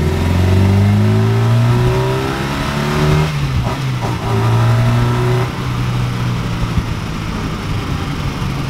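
Ford Capri's Pinto four-cylinder engine under way, revs rising as it accelerates, then a gear change about three seconds in where the pitch drops, followed by a steadier pull. The engine has freshly adjusted cam followers.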